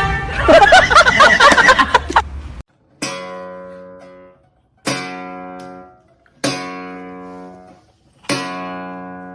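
Background music: after about two and a half seconds of busy, warbling sound, an acoustic guitar strums four single chords, each left to ring out, roughly one and a half to two seconds apart.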